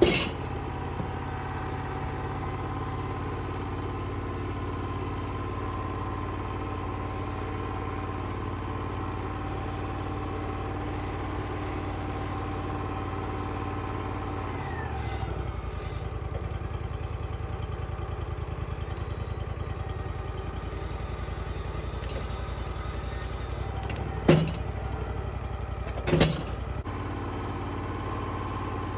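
An engine running steadily, which drops to a lower speed about halfway through; two sharp knocks ring out near the end, about two seconds apart.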